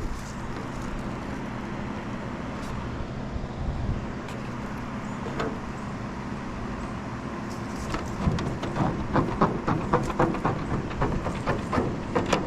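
A motor or engine running steadily with a low hum, joined in the last few seconds by a quick run of sharp knocks and taps.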